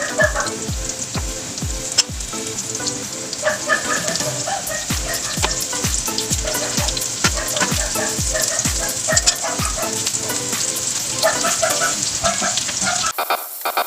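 Chicken pieces coated in flour, cornstarch and crispy-fry mix sizzling steadily as they deep-fry in hot oil, under background music with a steady beat of about two kicks a second. Both cut off suddenly near the end.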